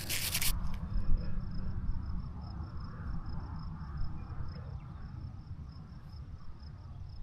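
Insect chirping steadily, about four short high pulses a second, over a low rumble. A brief scratchy rubbing sound comes at the very start.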